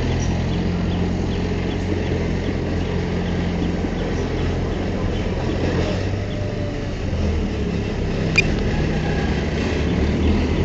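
Diesel engine of heavy earthmoving equipment running steadily, with one short sharp click about eight seconds in.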